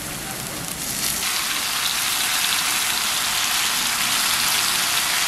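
Food sizzling as it cooks, a steady hiss that grows louder and brighter about a second in.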